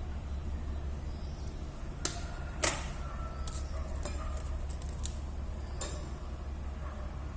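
A few sharp clicks and taps of small hard objects, as from tools and phone parts being handled on a work surface. The loudest comes about two and a half seconds in and rings briefly. Under them runs a steady low hum.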